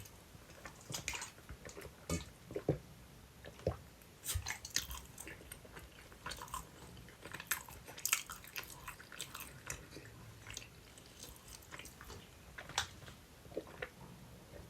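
Close-miked chewing and biting of sweet potato pizza: irregular wet mouth clicks and smacks throughout.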